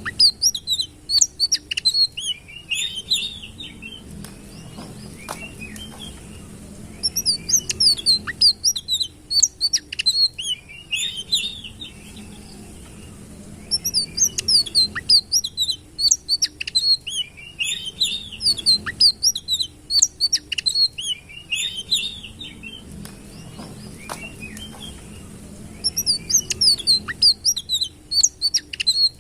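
Sitrun (indigo flycatcher) singing: bouts of rapid high chirps and trills lasting a few seconds each, with short pauses between them.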